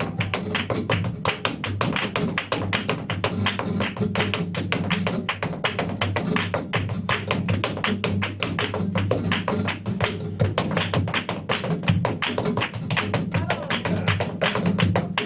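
Flamenco dancer's zapateado: shoes striking the floor in fast, dense footwork, many strikes a second without a break, over flamenco guitar in a tientos.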